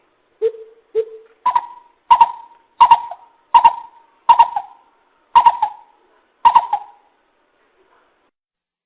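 A coucal giving its deep hooting call: a series of about nine hollow 'boop' notes. The first two are lower, and the rest are pitched higher and come at a slowing, even pace. The call stops about seven seconds in.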